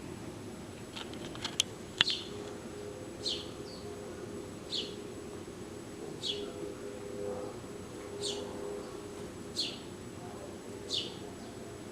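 A garden bird repeating a single short, high, downward-sliding call about every second and a half, over a steady low hum. A few sharp clicks come about one to two seconds in.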